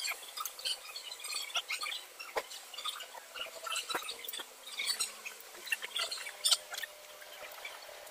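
Scattered light clicks and clinks of tools and metal engine parts being handled, irregular and unhurried; no engine is running.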